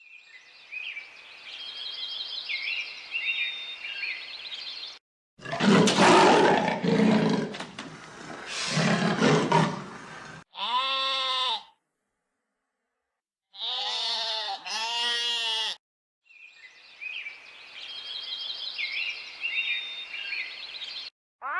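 A run of separate animal sound clips. Bird chirps over a steady hiss, then a loud, rough, roar-like call lasting about five seconds, then three short pitched, wavering calls with gaps between them, and the chirps over a hiss once more near the end.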